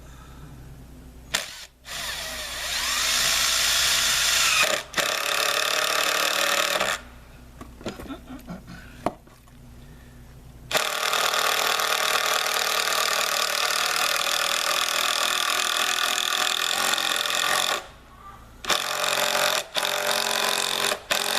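Handheld power driver running in several long bursts, the longest about seven seconds, as it drives fasteners into the base; a few light clicks fall in a pause near the middle.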